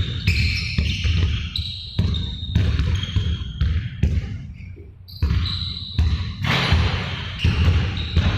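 Basketballs bouncing on a hardwood court, with repeated thuds and short high sneaker squeaks, echoing in a gym.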